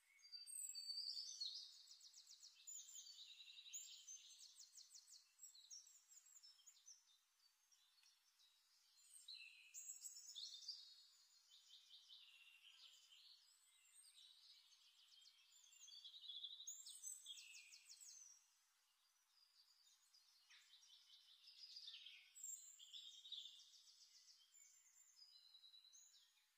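A songbird singing faintly: a long, varied song of rapid trills and high whistled notes, delivered in phrases of a few seconds with short pauses between them.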